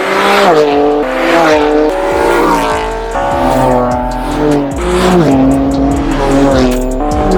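Straight-piped BMW M4 F82's twin-turbo inline-six running loud, its pitch rising and dropping away several times as the revs change.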